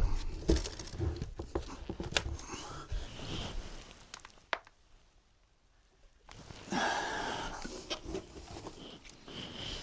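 Faint scattered knocks, clicks and rustling from handling things in a work space, broken by a stretch of dead silence in the middle.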